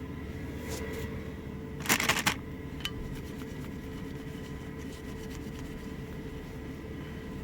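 Baby wipe rubbing over a glazed plate, a short burst of strokes about two seconds in. Under it, a steady low hum with a faint steady tone from the truck cab.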